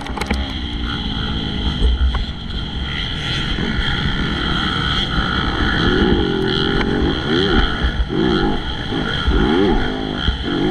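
Motocross bike engine running hard, steady at first, then its pitch climbing and dropping again about once a second from about halfway through as the throttle is opened and closed.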